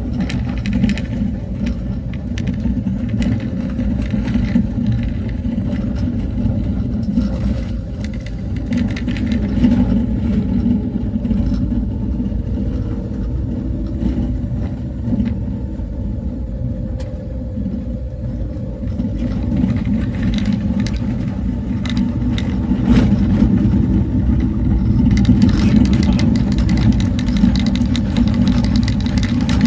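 A motor vehicle under way, its engine running steadily with a low rumble, with many small knocks and rattles throughout.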